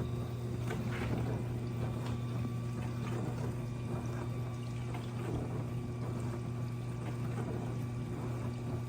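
Dishwasher running: a steady motor and pump hum with water swishing and spraying inside the tub. The machine is working normally again after a fault that had kept it from turning on.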